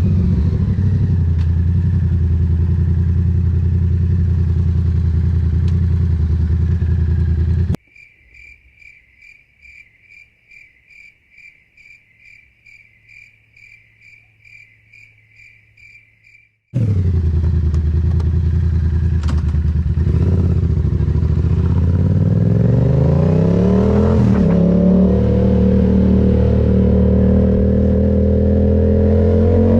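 Yamaha MT-07's parallel-twin engine running steadily, then cut off abruptly. For about nine seconds only a quiet, regular chirping about twice a second is heard, insect-like. The engine sound then returns and rises in pitch in stages as the bike accelerates.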